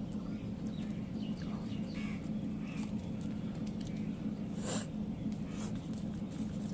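Eating sounds of people eating rice and chicken curry by hand: small mouth smacks and clicks over a steady low hum, with one sharper click or clatter about four and a half seconds in.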